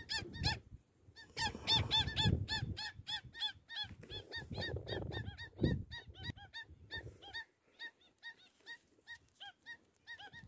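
A flock of lesser whistling ducks calling, a rapid run of short, thin whistled notes, about three or four a second, that thins out about seven seconds in. Strong wind buffets the microphone with a low rumble for much of that time.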